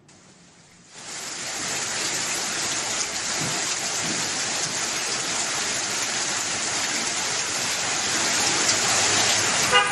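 Heavy rain pouring steadily onto a flooded street, a continuous hiss that comes in about a second in.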